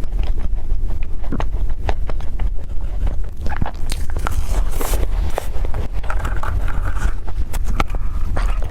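Close-miked eating: chewing with many short wet mouth clicks and smacks, over a steady low hum.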